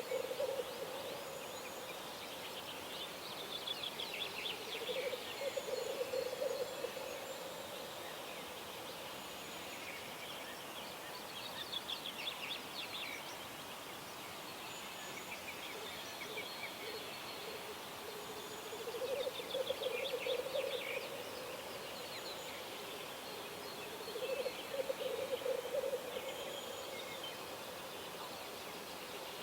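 Songbirds singing high trilled phrases at dawn, with a lower, rapidly pulsing bubbling call coming in bouts of about two seconds, four times, over a faint steady hiss.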